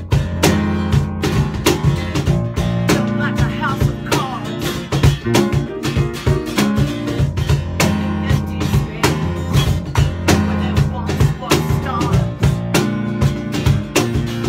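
A band playing an instrumental passage of an original song: acoustic guitar and drum kit keeping a steady beat over sustained low notes. Sliding melodic notes come in briefly a few seconds in and again near the end.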